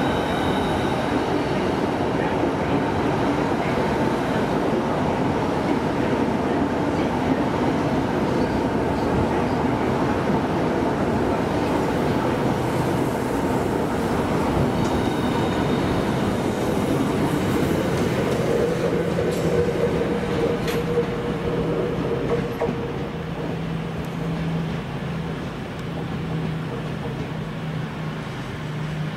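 Southeastern Class 395 Javelin high-speed electric multiple unit moving along the platform: a steady rumble of wheels on rails with brief whining tones at times. It grows quieter over the last several seconds as the train draws away.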